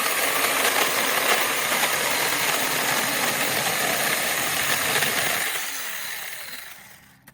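SEESII 6-inch cordless mini chainsaw running with a steady, loud electric-motor and chain buzz, then winding down and falling quiet over the last couple of seconds.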